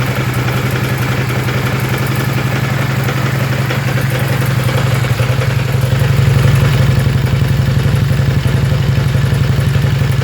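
Kawasaki 800 motorcycle engine idling steadily, with a fine rapid mechanical clatter over it, a little louder from about halfway. It is the strange noise the owner puts down to the clutch cylinder, which he says needs to be replaced.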